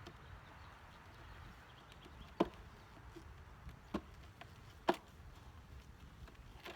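Wooden beehive frames knocking against the wooden hive box as they are lifted out: three short sharp knocks over a few seconds.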